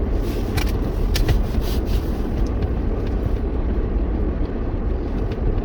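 Steady road and engine rumble of a moving car, heard from inside the cabin, with a few sharp clicks in the first two seconds.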